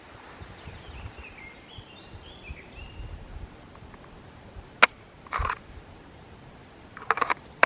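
Sharp clicks and a brief rattle of gear being handled, once about five seconds in and as a cluster of clicks near the end, over faint bird chirps in the first few seconds.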